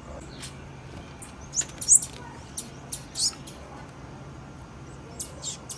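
Female blue-black grassquit (tiziu) giving short, thin, high chip calls at irregular intervals. A few come in quick succession about two seconds in, and another cluster comes near the end.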